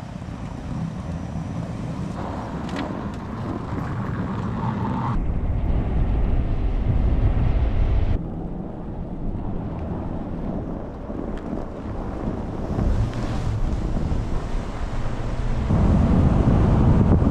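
A low, steady rumble that changes abruptly about five, eight and sixteen seconds in, as if separate shots were cut together.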